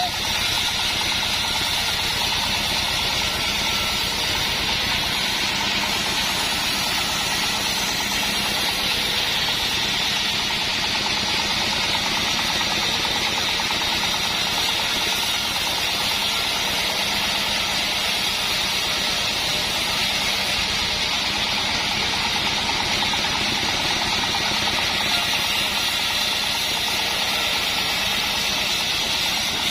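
Engine-driven band sawmill running steadily, with no change in its sound.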